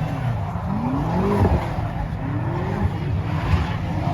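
A car engine revving hard, its pitch climbing and falling about twice, with tires squealing and skidding as the car spins.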